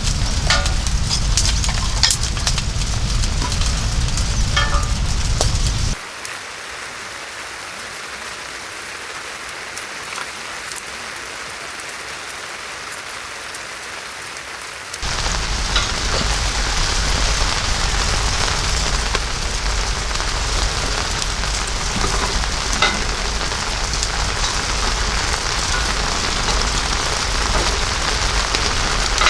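Heavy rain pouring and pattering on surfaces, with scattered drops ticking. About six seconds in it drops suddenly to a quieter, thinner hiss, then comes back at full strength after about nine seconds.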